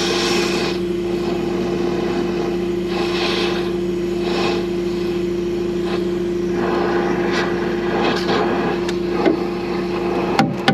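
Torch heating the metal of a snowblower housing: a steady rushing roar that swells and fades, over a constant machine hum. Right at the end, hammer blows on the heated metal begin, about four a second.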